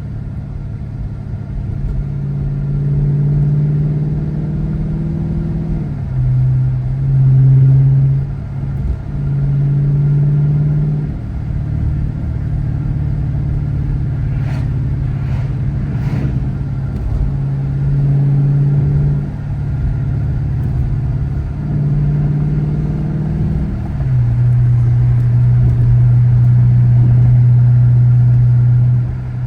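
Car engine and road noise heard from inside the cabin while driving, a steady low drone whose pitch drops and rises again every few seconds as the engine speed changes.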